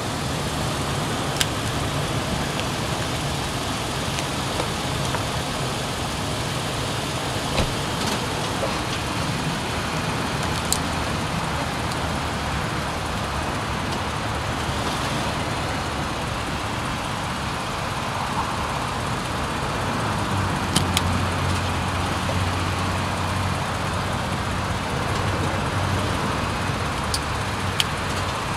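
A truck running and driving over asphalt, a steady engine and road noise with a few sharp clicks; the engine's low hum grows stronger about twenty seconds in.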